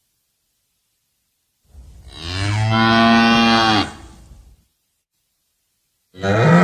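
A cow mooing: one long, low moo about two seconds in, then a second moo starting near the end.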